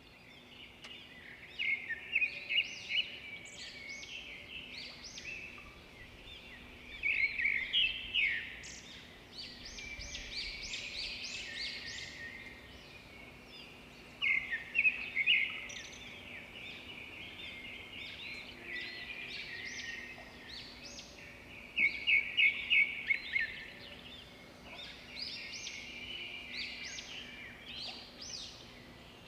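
Small songbirds chirping together in a steady chorus, with louder flurries of rapid chirps every few seconds between quieter stretches.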